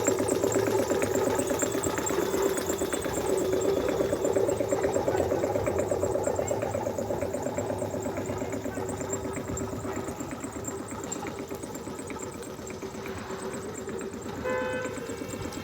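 A truck engine running with a fast, even beat, slowly getting fainter. Music comes in near the end.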